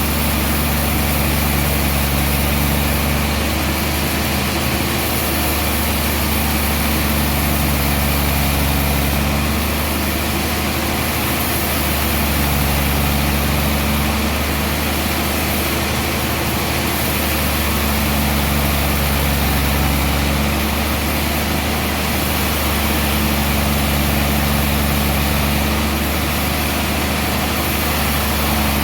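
Heavy sawmill machinery running steadily: a loud, low engine drone whose low tones come and go every few seconds.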